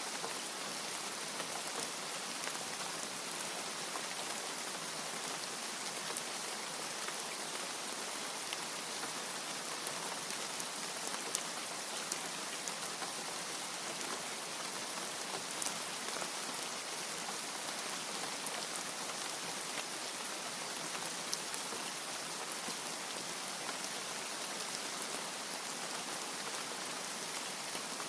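Steady rain, an even hiss dotted with scattered sharper drop ticks.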